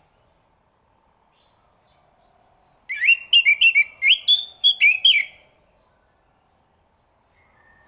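Chestnut-capped thrush singing: about three seconds in, one quick phrase of some eight sharp, upward-sweeping whistled notes, lasting about two and a half seconds.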